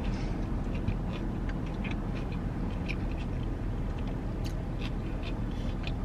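Close-up chewing of a mouthful of burger: an irregular run of small wet mouth clicks and smacks over a steady low hum.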